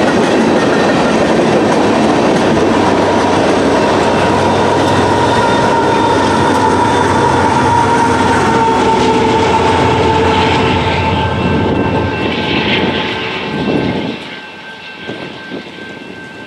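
Freight train passing close by: steady rumble and wheel clatter with a faint ringing tone over it, dropping off sharply near the end.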